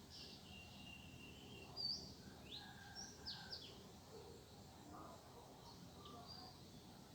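Several small birds chirping and whistling faintly over a low outdoor hum: short rising and falling chirps, one held whistle early on, and the loudest chirp about two seconds in.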